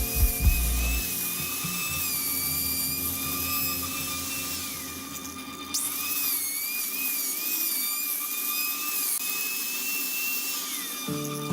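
High-speed power tool whining as it cuts wood, its pitch wavering up and down under load over a hiss of cutting noise, with a short dip and restart about halfway through.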